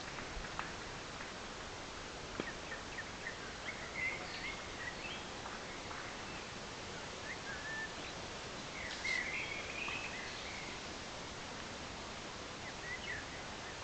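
Woodland ambience: scattered short bird chirps and calls over a steady background hiss, with a louder run of chirps about nine seconds in.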